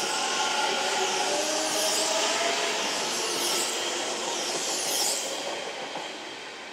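Kintetsu electric train running through the station, with motor whine and wheel and rail noise over a steady rushing sound. The sound fades over the last second or two as the train moves away.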